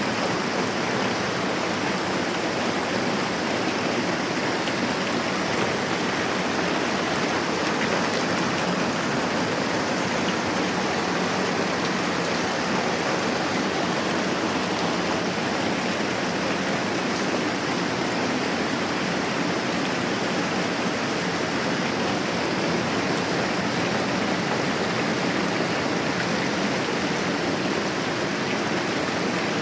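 Moderate rain falling steadily, an even unbroken hiss.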